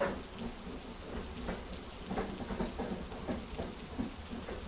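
Steady heavy rain with a low rumble beneath it and faint, irregular short taps.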